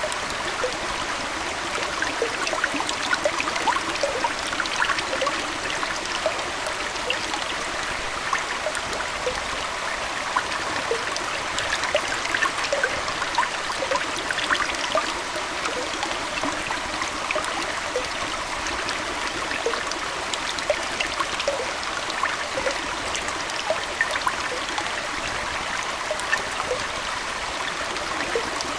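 Aquarium water flowing and trickling steadily, with many small bubbling plinks and drips scattered all through.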